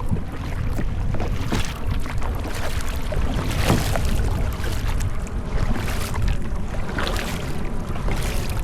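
Wind buffeting the microphone with a steady low rumble, over kayak paddle blades dipping and splashing in the water about once a second.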